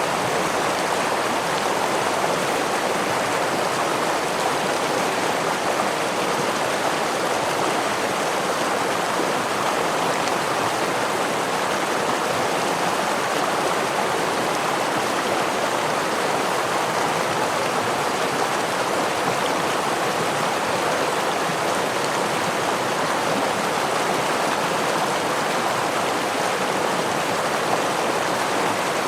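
Stream water flowing over a small waterfall: a steady, even rush of water that does not change.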